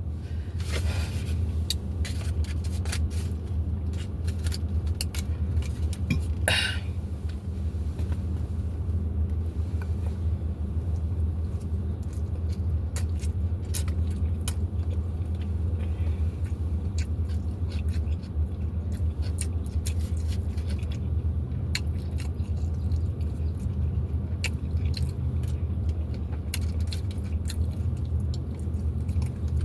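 Close-up eating sounds: chewing and crunching of tacos, with many small wet clicks and smacks, over a steady low rumbling hum. A short rustling burst comes about six and a half seconds in.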